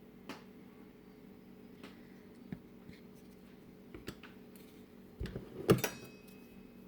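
Scattered light knocks and clinks of kitchen tools and containers set down on a worktop during dough preparation. The loudest is a clatter about five and a half seconds in, followed by a brief faint ring, over a faint steady hum.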